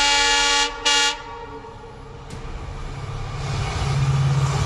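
Diesel locomotive's horn sounding a long blast that ends shortly after the start, then a short second blast, a chord of several tones; after it, the rumble of the train passing builds up, growing louder toward the end.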